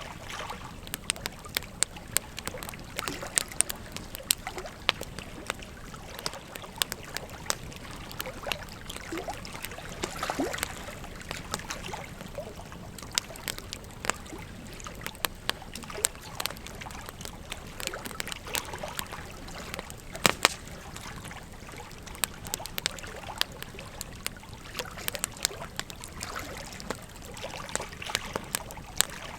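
Wood fire crackling with frequent sharp pops over the steady rush of a flowing river; one loud pop about twenty seconds in.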